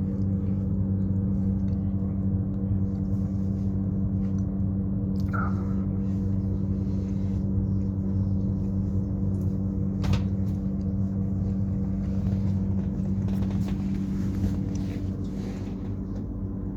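Steady hum inside a passenger train carriage, a low drone made of several fixed tones. There is a brief squeak about five seconds in and a sharp click about ten seconds in.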